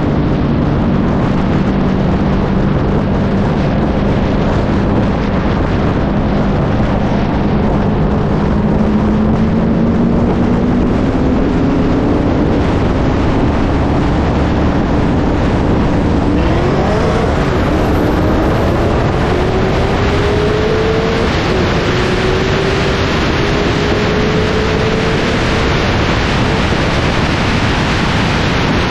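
Cars' V8 engines pulling hard at wide-open throttle from about 40 mph to over 140 mph, heard under heavy wind noise on the microphone. The engine note rises steadily, drops once about three-quarters through as a gear changes, climbs again, and near the end is lost in the wind.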